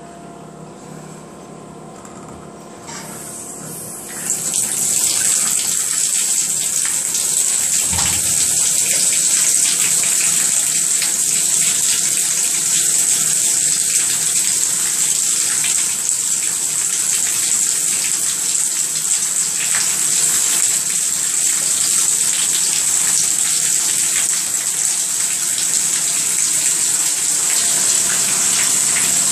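Water running from a tap, turned on about four seconds in and then flowing steadily.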